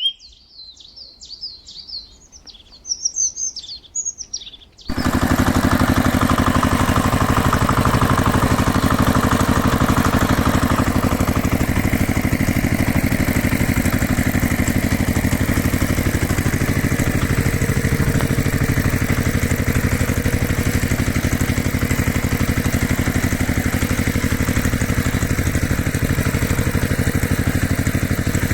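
Birds chirping for about five seconds, then a motor vehicle engine starts up abruptly and keeps running at a steady, even pace.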